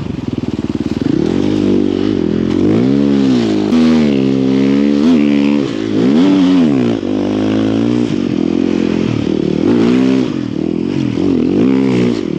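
Snow bike engine revving up and down over and over, its pitch rising and falling about once a second, as the rider works the throttle in deep snow.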